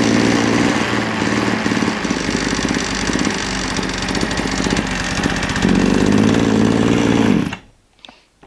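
A small 26.5cc two-stroke engine running fast with a metal-on-metal rattling knock, a steel-kicking-steel noise that comes from the clutch. Its pitch shifts in the middle, and it cuts off suddenly about seven and a half seconds in.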